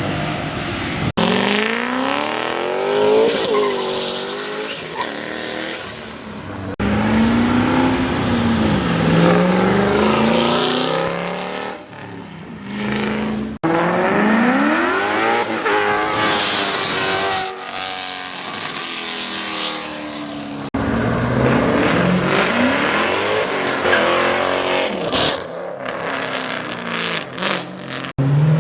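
Cars accelerating hard and revving, the engine pitch climbing and dropping repeatedly through gear changes, in several short clips cut one after another.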